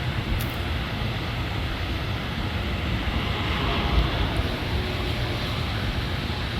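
Wind buffeting the microphone: a steady rushing noise with a choppy low rumble, and a brief thump about four seconds in.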